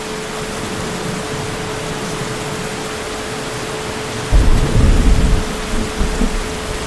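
Heavy rain falling steadily, with a low thunder rumble breaking in suddenly about four seconds in and rolling on unevenly for about two seconds.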